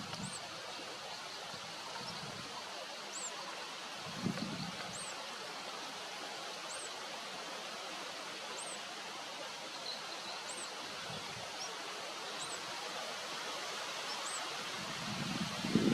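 Steady outdoor hiss of natural ambience, with a faint, high, short chirp repeating about every two seconds and a brief low bump about four seconds in.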